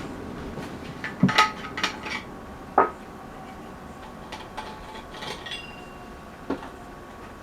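Metal cookware and utensils clinking and knocking: a quick cluster of clatters about a second in, a louder single knock near three seconds, then a few lighter taps.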